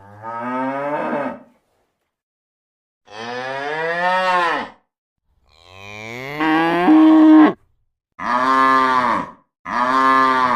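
Cow mooing five times in a row, with short silent pauses between the moos; several moos drop in pitch as they end.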